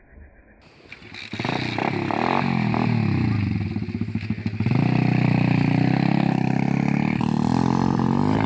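SSR 125 pit bike's single-cylinder four-stroke engine running and revving, coming in loud about a second in, its pitch rising and falling, then louder and steadier from about halfway, with the revs still swinging.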